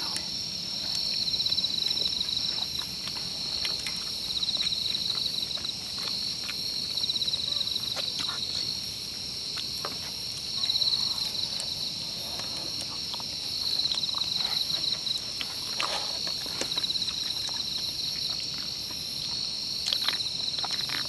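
Insects chirring steadily in several high-pitched, pulsing trills, with scattered faint clicks and taps.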